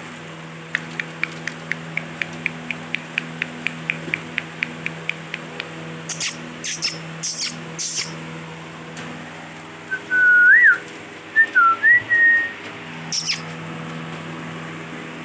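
Indian ringneck parakeets calling: a fast, even run of short chirps, about four a second, then several shrill high calls. These are followed by a loud whistled phrase that swoops up and down, and one more shrill call near the end. A steady low electrical hum runs underneath.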